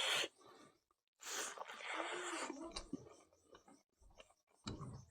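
A person eating close to the microphone: a long breathy exhale, then smacking and chewing clicks, with a short burst of mouth noise near the end.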